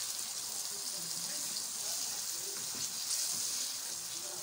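Chicken, onion, tomato and chilli masala sizzling steadily in hot oil in an aluminium karahi while being stirred with a wooden spoon.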